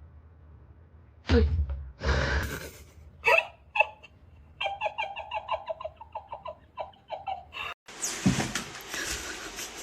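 A person laughing: a couple of loud outbursts, then a quick run of short laughs, several a second, that stops abruptly just before the end.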